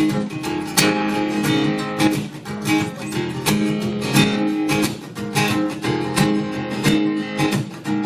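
Acoustic guitar strumming chords in a steady rhythm: the instrumental intro of a country song, before the vocal comes in.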